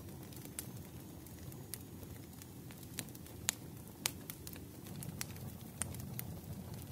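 Wood fire crackling in a fireplace: irregular sharp pops and snaps over a low, steady rumble, with the loudest pops about three and a half and four seconds in.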